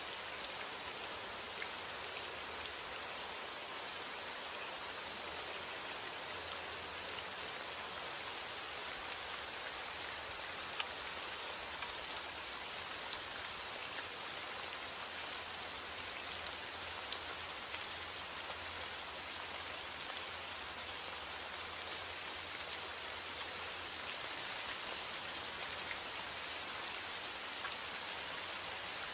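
Steady rain, heard as an even hiss with the scattered ticks of single drops striking a surface.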